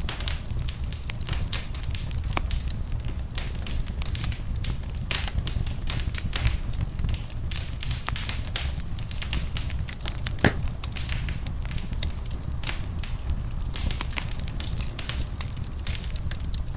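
Wood fire burning in a fireplace, crackling with many small irregular pops over a steady low rumble, one sharper pop about ten seconds in.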